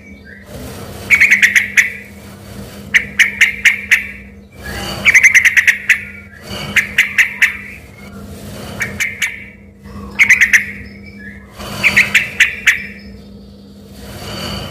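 Yellow-vented bulbul (trucukan) in full song, delivering about seven loud phrases one to two seconds apart. Each phrase is a quick run of sharp notes, in the style of a white-rumped shama. A steady low hum runs underneath.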